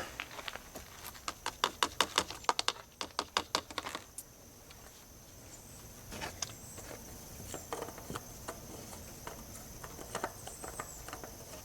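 A quick run of sharp, light clicks, about five a second for roughly four seconds, then only a few scattered faint taps.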